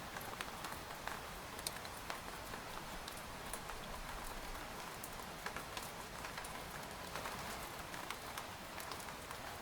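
Rain falling on a tent: a steady hiss of rainfall with individual drops tapping irregularly and close on the fabric.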